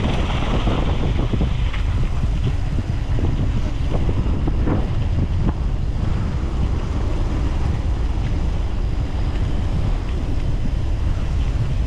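Wind buffeting the microphone during a fast mountain bike descent, over a steady rumble of tyres on the trail, with a couple of sharp knocks and rattles from the bike about halfway through.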